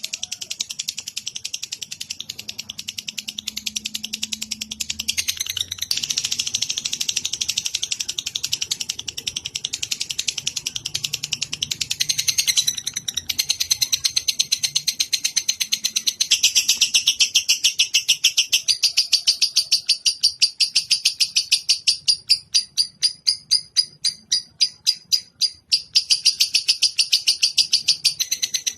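A songbird chirping in long, rapid high-pitched trills. For a few seconds near the end the trill breaks into separate chirps, about four a second, then runs on again.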